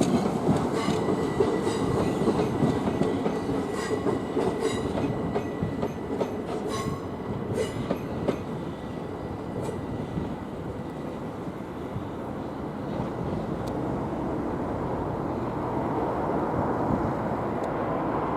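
Southern Class 377 electric multiple-unit train running on the approach tracks, its wheels clicking over rail joints. The clicking is heard in the first half, the sound then fades, and it swells again near the end as another train draws near.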